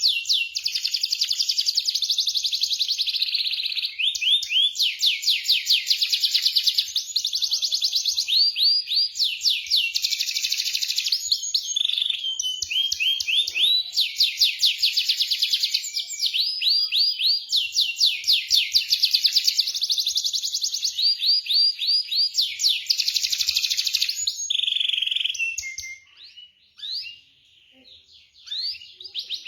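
Canary singing a long song of fast rolling trills, runs of rapidly repeated high notes one after another. It breaks off about 26 seconds in and starts again just before the end.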